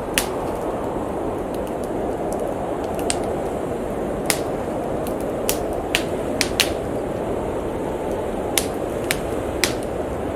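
Steady howling blizzard wind, with a wood fire crackling and popping in sharp, irregular snaps about once a second.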